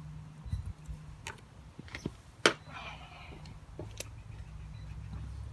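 A few sharp clicks and taps from handling a tyre plug repair kit, the loudest about two and a half seconds in, over a low steady hum.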